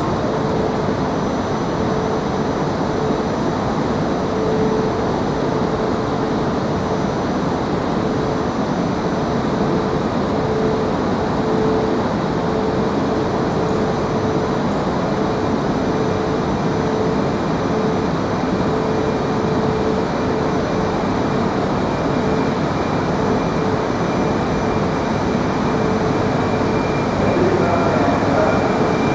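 200 series Shinkansen train running slowly into the platform on arrival: a steady rumble and hiss, with a mid-pitched hum that swells and fades.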